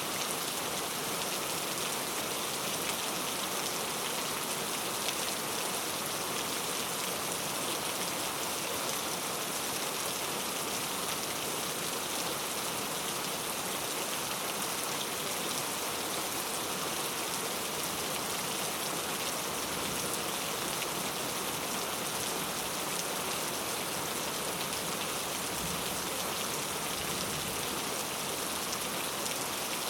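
Steady rainfall pattering on a surface, an even rushing hiss with fine drop detail and no let-up.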